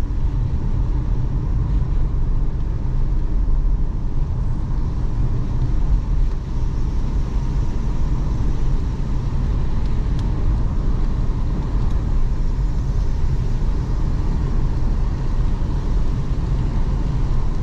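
Car being driven, its engine and tyres making a steady low rumble heard from inside the cabin.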